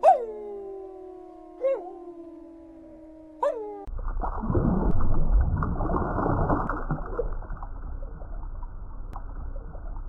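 Grey wolves howling together in long, slowly falling notes, with three sharp yelping cries breaking in. The howls cut off abruptly about four seconds in and give way to a steady low rumble and gurgle of water.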